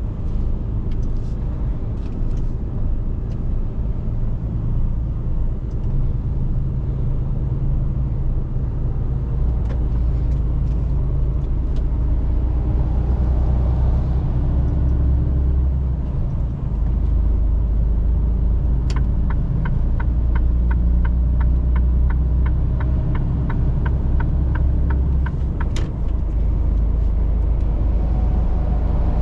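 Mercedes Actros truck's diesel engine droning steadily, heard from inside the cab, with a brief dip in the drone partway through. In the second half the turn-signal indicator ticks a little over twice a second for several seconds, switched on and off with a sharper click.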